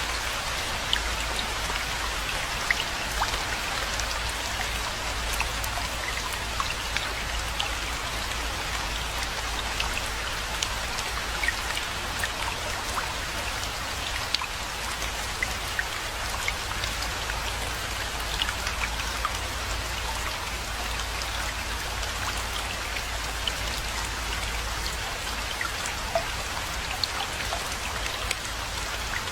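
Steady rainfall: an even hiss of rain with many separate drops ticking sharply through it.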